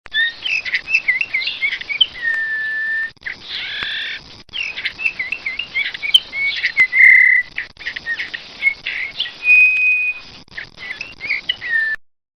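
A songbird singing: quick warbling phrases of rising and falling whistles, with single long held whistles among them, broken by brief gaps about 3, 4.5 and 7.5 seconds in.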